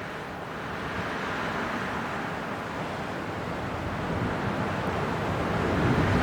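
Winter wind blowing, one gust growing steadily louder.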